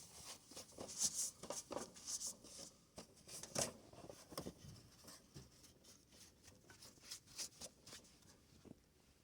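Faint, scattered rustles, scrapes and light clicks, with no engine running.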